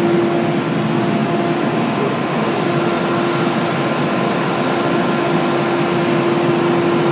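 Volvo FH truck's diesel engine held at maximum revs, running steadily with a constant droning tone. It is a catalytic converter regeneration, burning off oil that a failed turbo passed into the SCR catalyst.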